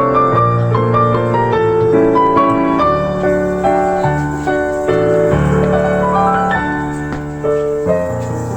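Background piano music: a melody of quick notes over sustained low notes.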